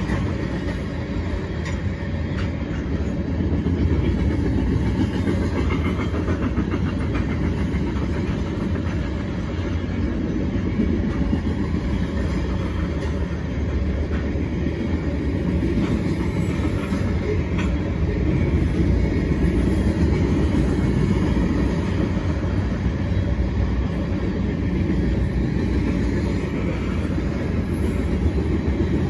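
A mixed freight train's cars roll past: a steady rumble of steel wheels on rail, with scattered clicks as the wheels cross rail joints.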